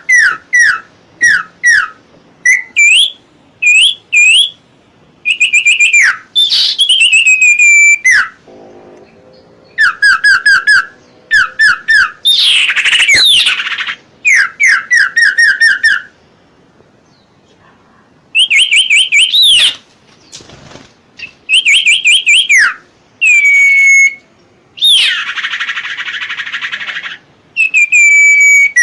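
A songbird singing loud, clear whistled phrases of quick repeated notes that slide up and down in pitch, with short pauses between phrases. Near the end comes a harsh, rasping call.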